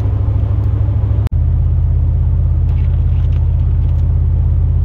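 Steady low engine and road rumble heard from inside a pickup truck's cab while driving. It breaks off abruptly for an instant about a second in, then carries on as a slightly deeper steady drone.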